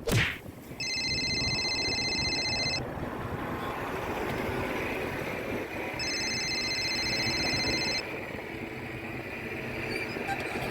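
A truck engine running steadily. Twice it is joined by a high, rapidly pulsing electronic buzz, about two seconds each time, like a vehicle warning beeper. There is a single knock right at the start.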